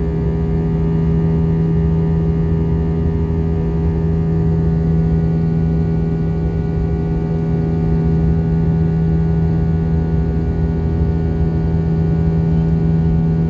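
Airbus A320 jet engines running steadily at climb power: a constant drone with a deep rumble, a strong steady hum and a fainter whine above it, unchanging throughout.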